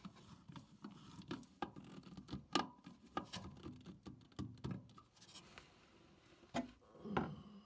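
A clamp being tightened around a flexible vent duct over its pipe: faint, irregular clicks and scratches, with light rustling of the duct.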